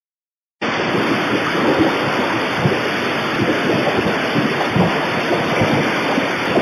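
Loud, steady rushing noise with low rumbling, starting abruptly about half a second in after a moment of silence.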